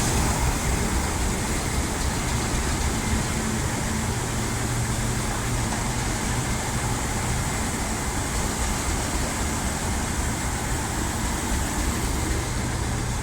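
A train's steady running noise, with a low hum.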